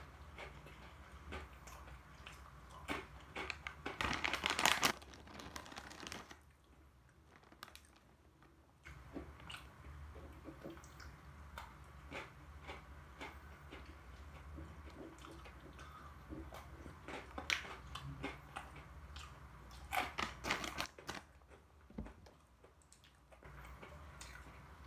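A person biting and chewing almond Pepero chocolate-coated biscuit sticks: crisp crunching clicks throughout, with two louder runs of crunching about four seconds in and again about twenty seconds in.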